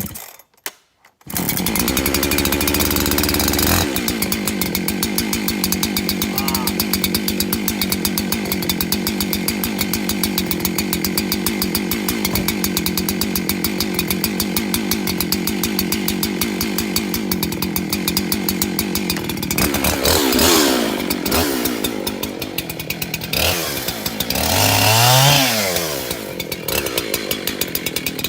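Two-stroke chainsaw starts up about a second in and runs steadily at speed. Its revs drop and rise twice near the end.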